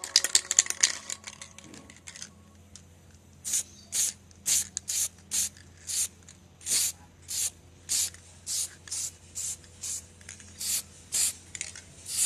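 Plywood being hand-sanded: a quick flurry of scraping strokes for the first two seconds, then short, even strokes about two a second.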